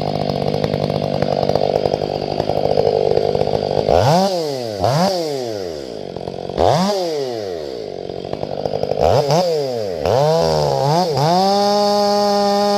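Ported Stihl 500i fuel-injected two-stroke chainsaw cutting through a grand fir log for about four seconds. The throttle is then blipped up and down several times. Near the end the saw is held at a steady high rev.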